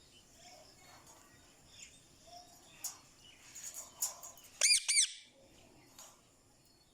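Indian ringneck parakeet giving two short, loud screeches in quick succession about four and a half seconds in, after a few soft chirps and clicks.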